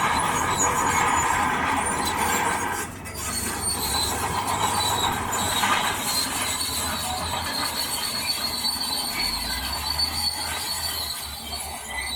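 Heavy earthmoving machinery working: a diesel engine rumbles under a steady high metallic squeal and grinding. There is a brief lull about three seconds in.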